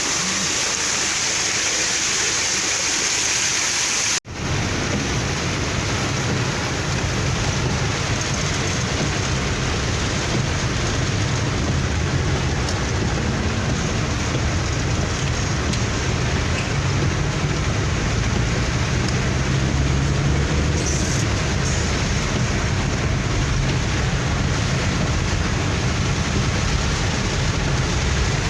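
Heavy rain with the steady noise of a car driving through it. About four seconds in the sound breaks off for an instant, and after that a low rumble from the car runs strongly under the hiss of the rain.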